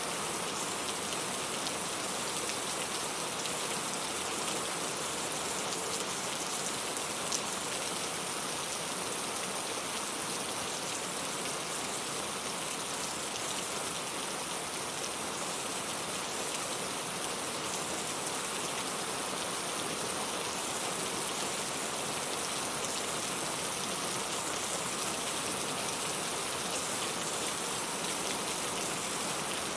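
Steady rain falling, a dense even hiss of many drops hitting a surface, with one brief sharper drop tick about seven seconds in.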